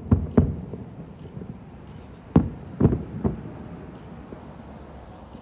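Fireworks shells bursting: two bangs right at the start, then three more in quick succession about two and a half seconds in, each with a short echoing tail.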